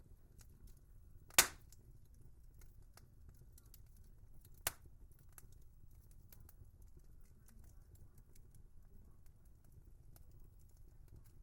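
Wood fire crackling softly, with many small ticks over a low rumble and two sharp pops, a loud one about a second and a half in and a smaller one a few seconds later.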